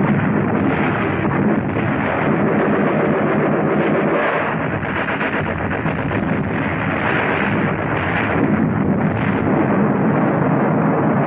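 Dense, continuous battle noise of gunfire and shell explosions, heard on a 1940s film soundtrack that sounds narrow and dull at the top.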